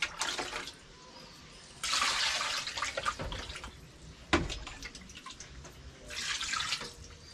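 Tap water running onto raw chicken pieces to give them a first rinse, in two bursts of about a second each, with knocks and clatter of the chicken and bowl between them and one sharp knock about four seconds in.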